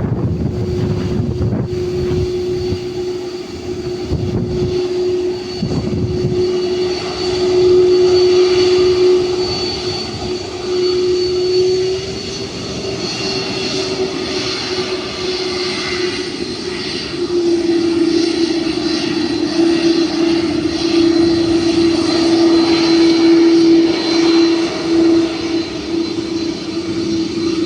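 Airbus A330-300's twin jet engines running at takeoff power: a loud, steady hum with a high whistle above it, swelling louder about halfway through. Wind buffets the microphone in the first few seconds.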